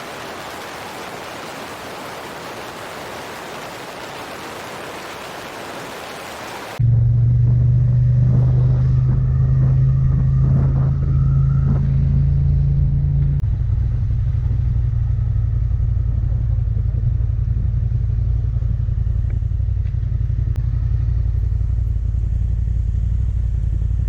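Wind rushing steadily over the microphone, then an abrupt change about seven seconds in to a Yamaha XSR700's parallel-twin engine running steadily under way, settling a little lower in pitch about halfway through.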